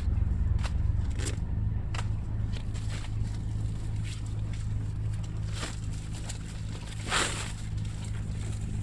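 Steady low mechanical hum, engine-like, with scattered clicks and knocks over it and a louder scraping rustle about seven seconds in.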